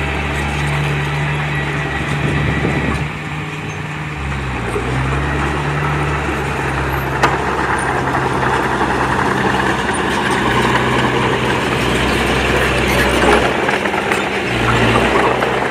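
Heavy diesel engine of earthmoving machinery running under working load. Its pitch dips about three seconds in and then comes back up as the load changes. A single sharp click sounds about seven seconds in.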